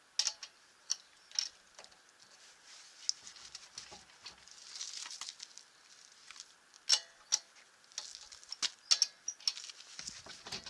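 Irregular light clicks and taps, about a dozen, with soft rustling between them, typical of tools and parts being handled during a wheel change.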